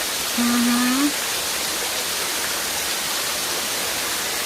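Karekare Falls waterfall pouring into its pool: a steady rushing hiss of falling water. A short wordless vocal sound about half a second in.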